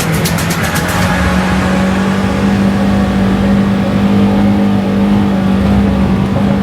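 Vehicle engine running hard at high, steady revs, one held drone, with a heavy rush of tyre and wind noise.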